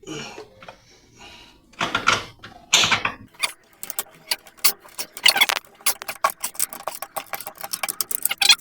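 Rapid, irregular clicking and tapping of small hard parts being handled and fitted, starting about three seconds in. It is preceded by a few brief mumbled sounds.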